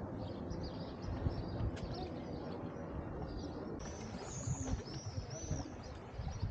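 Birds chirping, with a short run of high, arched chirps about four seconds in, over a low, uneven outdoor rumble.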